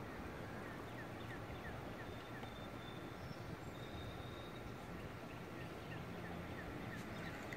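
Steady faint background noise, with a bird's short falling chirps repeated about four times a second in a run during the first three seconds and again near the end.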